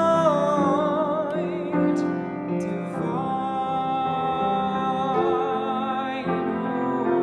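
A classical solo singer with a wide vibrato holding long notes over soft piano accompaniment.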